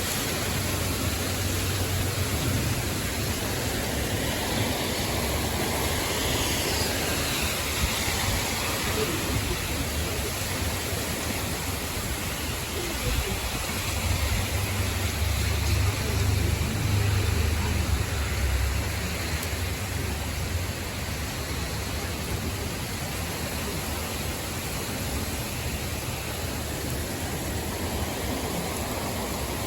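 Heavy storm rain pouring down steadily, a dense even hiss. A low rumble swells near the start and again, louder, a little past the middle.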